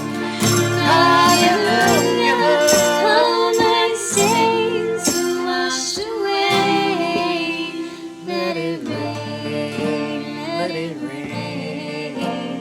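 Live praise band music: instruments playing with voices singing over them.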